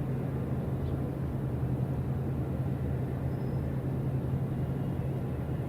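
A ship's engine running with a steady low drone over a constant rumble, unchanging throughout.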